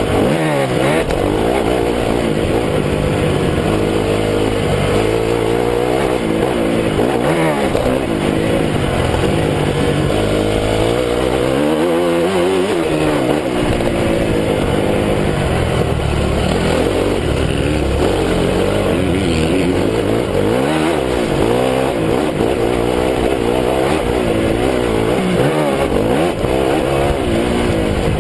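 Honda CRF 250 four-stroke single-cylinder motocross engine, heard close up from the bike, revving hard and easing off again and again as the rider works the throttle and gears around the track.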